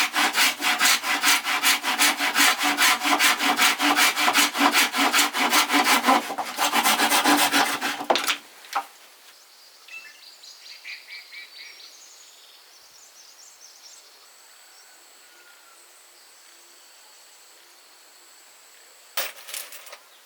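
Hand saw cutting through wood in quick, even strokes, stopping about eight seconds in. After that only faint birds and insects, with a short loud scrape near the end.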